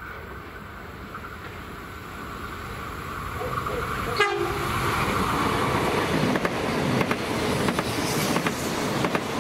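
A train approaching and passing close by, growing steadily louder from about three seconds in, its wheels clicking sharply over the rail joints.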